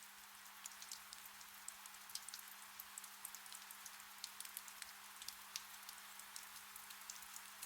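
Gentle rain, faint: a steady soft hiss dotted with many small drop ticks. A faint steady low hum runs underneath.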